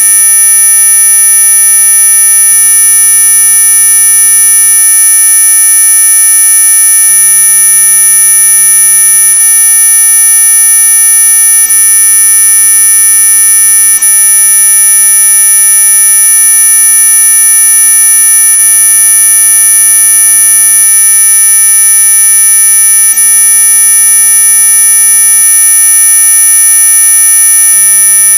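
Loud, steady electronic tones of an anti-mosquito repellent sound track, several pitches held at once: a piercing very high whistle on top, with fainter tones lower down. It does not change.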